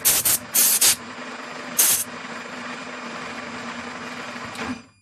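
Several short, loud bursts of hissing over a steady machine hum. The bursts come close together in the first second, with one more about two seconds in. The hum cuts off shortly before the end.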